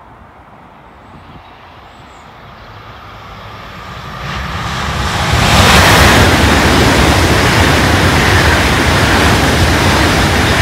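Eurostar high-speed train passing at speed: a rush of wheel, rail and air noise that builds from about four seconds in, is loudest from about six seconds, and stays loud as the long train goes by.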